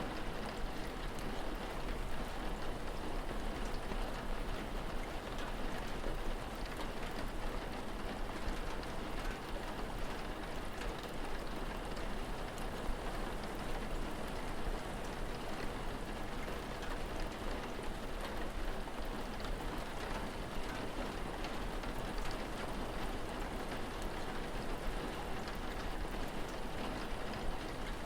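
Steady rain: an even hiss of falling rain dotted with many small drop ticks.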